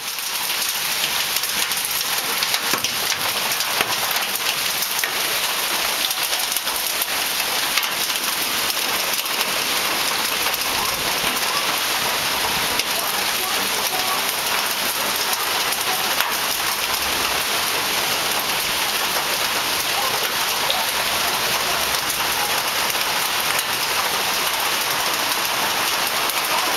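Heavy rain mixed with hail pouring down, a steady dense hiss full of small hits on surfaces.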